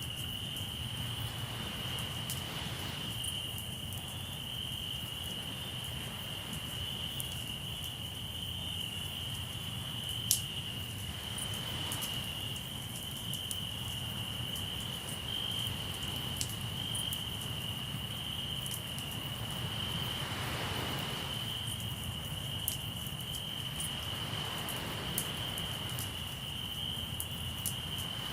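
Crickets trilling steadily over a crackling campfire, with scattered sharp pops and one louder snap about ten seconds in. Beneath them a low wash of sea surf swells up every several seconds.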